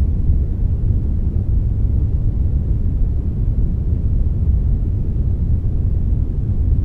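Steady synthetic brownish noise: a deep, even rumble-like hiss with most of its weight in the low end and little above, a blend of brown and white noise made for sleep and focus.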